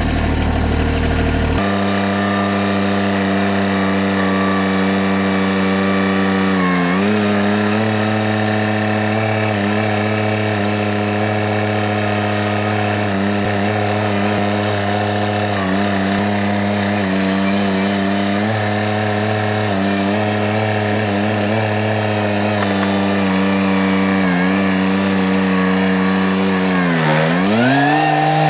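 RK tractor engine running steadily at working speed. Its pitch sags briefly about seven seconds in, and dips more deeply near the end before settling at a slightly different note.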